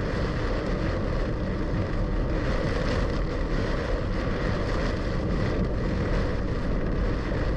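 Steady noise of a car being driven through heavy rain, heard from inside the cabin: rain on the car and tyres hissing on a soaked road.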